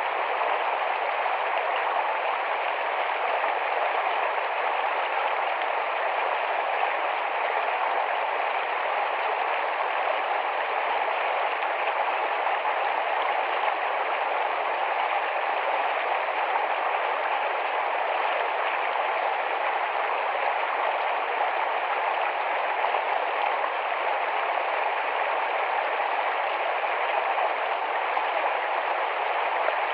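Rapid, shallow forest stream flowing: a steady, even rush of water.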